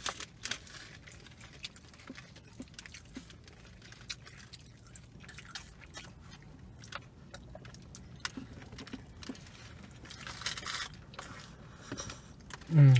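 Close-up eating sounds of shrimp tacos and a chicken burrito being bitten and chewed: wet mouth clicks, squishes and small crunches. Near the end comes a short, loud hum that falls in pitch.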